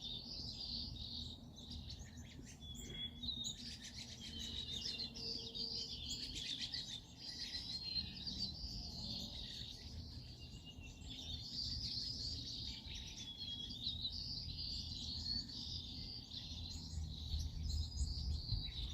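Many small songbirds chirping and twittering together in a dense, continuous chorus, over a steady low rumble.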